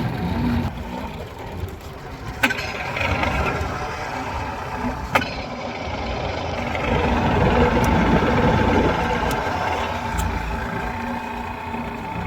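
Two-stroke outboard motor of a jet jon boat running steadily, swelling a little louder partway through, with two sharp clicks early on.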